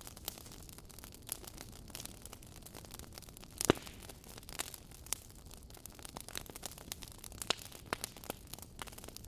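Wood fire crackling in a fireplace: scattered pops and snaps over a faint hiss, with one much louder pop a little before halfway.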